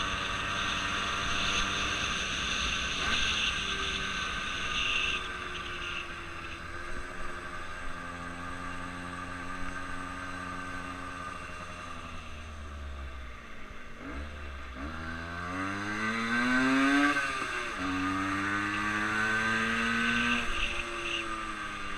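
A motor engine running, its pitch steady at first, then falling and rising several times in the second half as the throttle changes.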